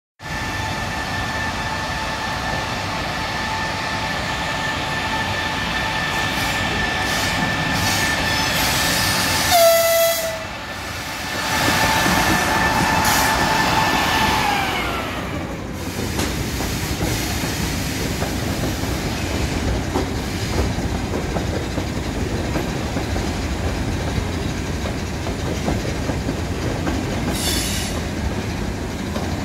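EP20 electric locomotive arriving, with a steady high whine from its traction converters and a short horn blast about ten seconds in. The whine slides down in pitch and fades as the locomotive passes, and then the double-deck passenger coaches roll by with steady wheel-on-rail noise.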